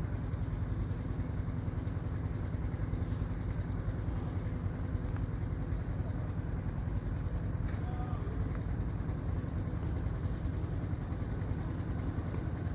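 Strong wind buffeting the camera microphone: a steady, heavy low rumble with no break.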